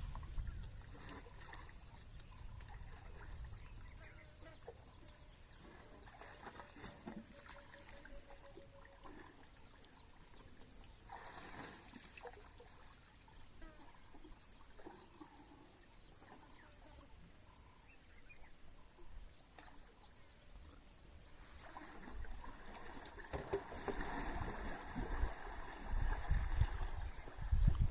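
Water lapping and trickling against the hull of a small river safari boat. A low rumble grows louder over the last few seconds.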